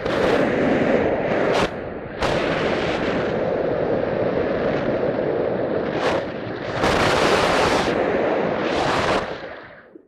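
Wind buffeting the microphone in gusts: a loud rushing noise that surges and dips a few times, then dies away near the end.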